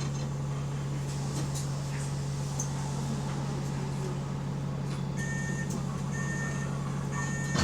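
Bus engine with an exhaust leak, running with a steady low drone heard from inside the bus. About five seconds in, a repeated electronic beep starts, sounding one to two times a second.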